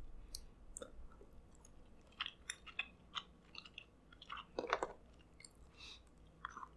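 A person chewing crab meat dipped in sauce: soft chewing with scattered wet mouth clicks and smacks, a little busier in the middle.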